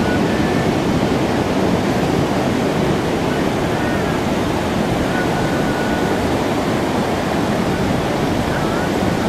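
Ocean surf, big waves thrown up by a distant hurricane, breaking and washing ashore in a steady, loud rushing noise.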